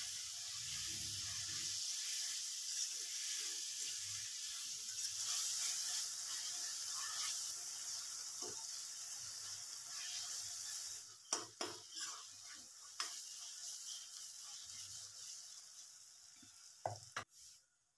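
Tomato masala sizzling in oil in a metal kadai while a steel spatula stirs and scrapes it. The sizzle slowly dies down. A few sharp clinks of the spatula against the pan come about eleven to thirteen seconds in and again near the end.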